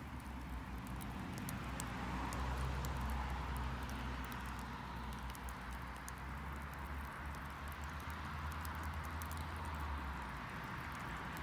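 Garden wood fire crackling, with many small sharp pops scattered throughout. Under it runs a low steady rumble that fades out about ten seconds in.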